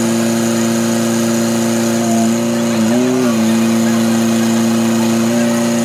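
An engine running steadily, its pitch rising briefly and falling back once about three seconds in.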